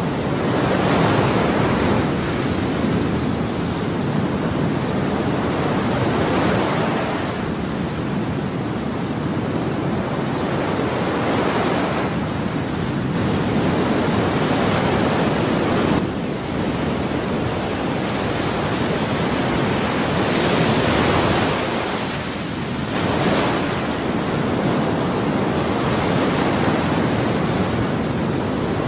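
Ocean waves breaking and washing in a continuous rush of surf, with a fresh wave swelling every few seconds.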